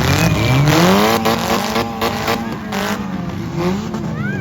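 Demolition derby car engines revving, the pitch rising and falling several times as more than one engine is blipped at once.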